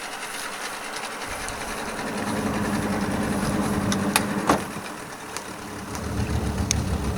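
Small boat's engine running on the water, picking up about a second in, easing back around five seconds, then building again near the end. A couple of short knocks come around four seconds in.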